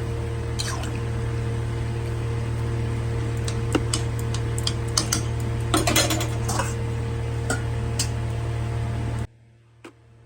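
Metal spoon stirring in a kadai of chicken curry with water, clinking against the pan now and then, with a cluster of clinks about six seconds in, over a steady low hum. Everything cuts off abruptly about nine seconds in.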